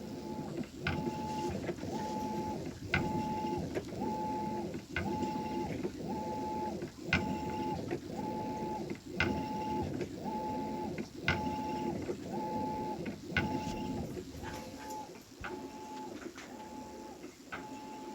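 Maytag MVWB835DW top-load washer agitating, with a high squeal in short pulses about twice a second over a low churning rumble and sharp pops recurring roughly every two seconds. It is the popping and squealing during the wash cycle that the owner hears as a fault in the brand-new machine.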